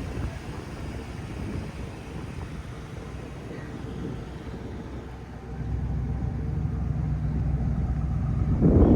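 A 2012 Ford F250's 6.2-litre gas V8 running with a steady low rumble, getting louder about five and a half seconds in. A brief louder burst of noise comes near the end.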